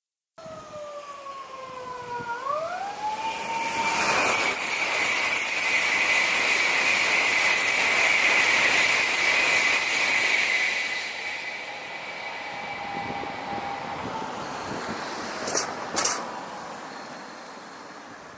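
N700-series Tokaido Shinkansen train passing at speed. A rush of air and wheel noise builds, stays loudest for about six seconds with a steady high whine, then fades away. Gliding whistle-like tones fall and then sweep up in the first few seconds, and two short sharp clicks come near the end.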